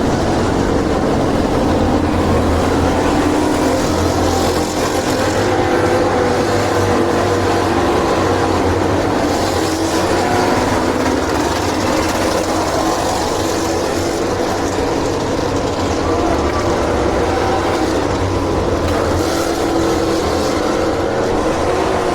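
A motor vehicle engine running steadily, its pitch drifting slightly, under a constant rush of wind noise.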